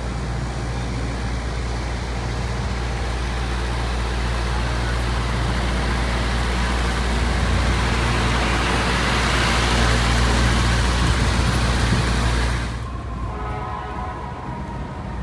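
City street traffic: a steady low engine hum under a wash of road and tyre noise that grows louder, then cuts off abruptly near the end, leaving a much quieter background.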